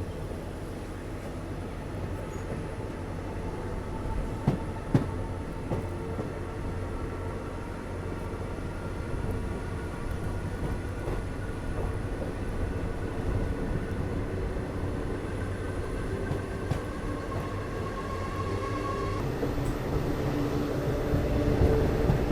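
Passenger train running steadily on the rails with a constant rumble and faint whining tones that slowly rise in pitch. There are two sharp knocks about four and five seconds in, and the sound grows fuller a few seconds before the end.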